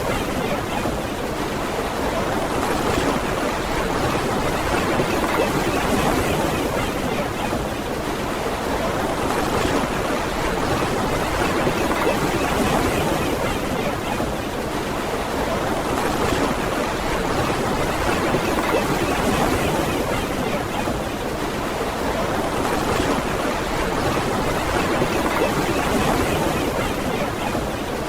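Ocean surf washing ashore in a continuous rush, slowly swelling and easing every several seconds.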